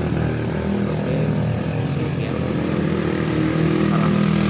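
An engine running steadily, with a low, even hum that wavers slightly in pitch.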